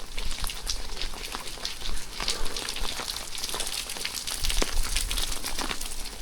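Rain falling steadily, with many close drops striking surfaces in quick, irregular ticks over a constant hiss, and a few low thumps here and there.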